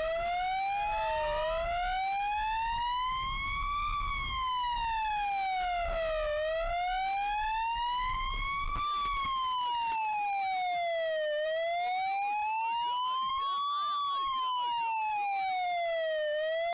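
Police car siren on a slow wail, its pitch rising and falling about every five seconds, with a low rumble under it in the first half.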